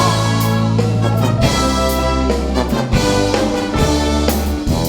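Brass band playing an instrumental interlude: sustained brass chords over held bass notes, with regular drum hits.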